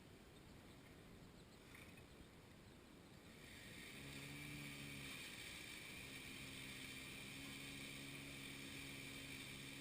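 An engine comes in about a third of the way through, its pitch wavering briefly, then runs steadily at a constant speed.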